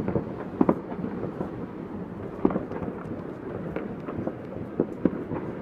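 Distant New Year's fireworks going off all around: a steady rumbling haze of far-off explosions with scattered sharp pops and cracks, a few louder ones among many faint ones.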